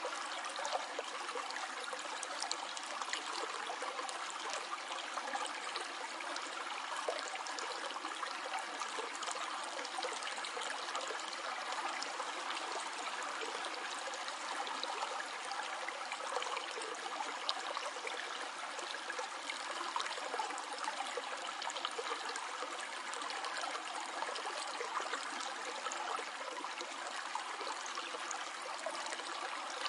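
A small stream flowing and trickling over stones, a steady dense rush of water sprinkled with fine splashes and droplet ticks.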